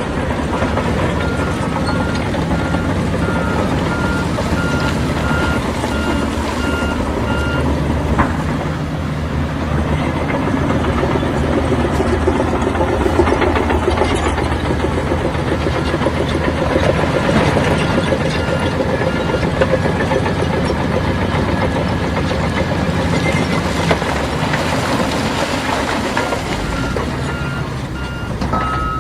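Heavy diesel construction machinery running steadily, with a reversing alarm beeping for the first several seconds, briefly again midway and again near the end. A single sharp clank about eight seconds in.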